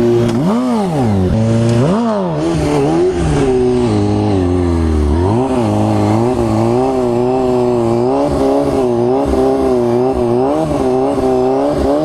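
Kawasaki ZX-6R sport bike's inline-four engine, through a full aftermarket exhaust, being ridden hard: a few sharp revs rising and falling in the first seconds, a drop toward idle around the middle, then quick throttle swells up and down about twice a second.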